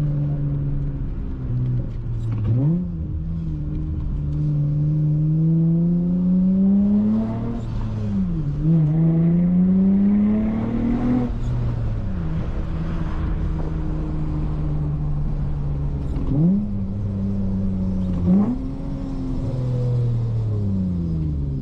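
Exhaust and engine of a Honda Accord V6 coupe running a swapped J32A3 3.2-litre V6 through a loud Skunk2 Megapower single-exit exhaust, driven with a six-speed manual. The revs climb in long pulls, dropping sharply at gear changes, then settle into a steady cruise. Near the end come two quick throttle blips before the revs fall away.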